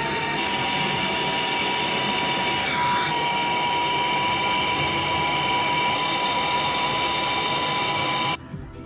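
A power tool's electric motor running at steady speed with a high whine, stopping abruptly near the end.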